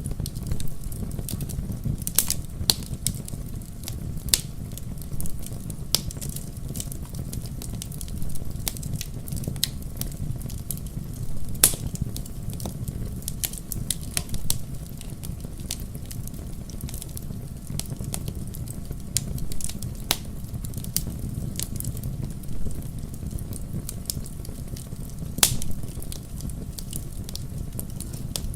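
Wood fire burning in a fireplace: a steady low rumble with frequent irregular crackles and pops, a few of them sharper and louder.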